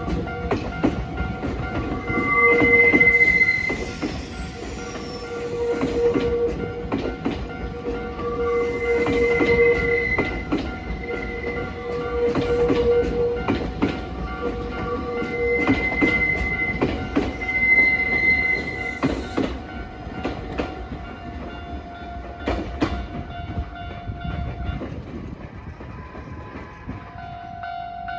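A Nankai Railway electric train passing over a level crossing, its wheels clacking over rail joints, with several high-pitched wheel squeals each lasting about a second. A level-crossing warning bell rings steadily, breaks off near the end and starts again.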